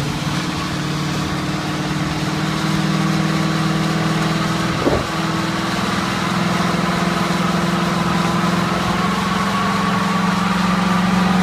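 1960 Ford panel truck's engine running at steady revs, its pitch creeping slowly upward and growing a little louder, with a thin high whine rising near the end and a brief click about five seconds in.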